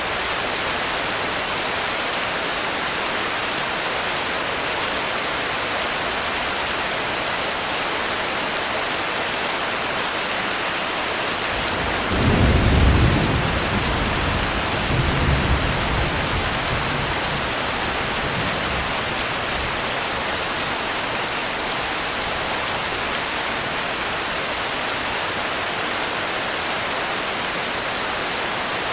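Steady rain hiss, with a low thunder rumble about twelve seconds in that swells twice and dies away over several seconds.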